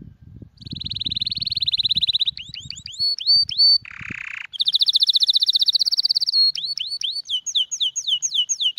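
Birdsong: a bird singing fast buzzy trills and a string of quick downward-sweeping whistled notes. Soft low rustling of handled satin ribbon comes in the first two seconds, and a brief hiss about four seconds in.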